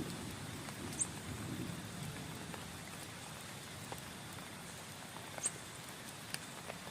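Heavy rain falling on a tent: a steady, even hiss with a few sharp drip taps. A low rumble fades out over the first two seconds.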